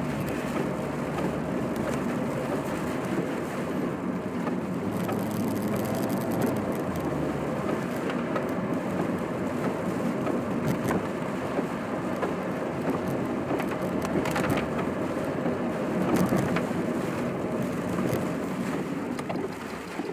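Car driving, heard from inside the cabin: a steady rush of engine and road noise with scattered light taps, possibly rain on the car.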